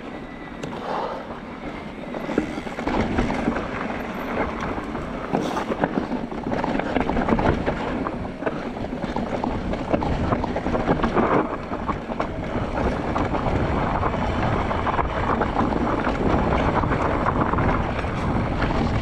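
Mondraker Crafty R mountain bike riding down a rough forest trail: tyres running over dirt and stones, with a constant rattle and clatter of knocks from the bike over the bumps, and wind buffeting the camera microphone.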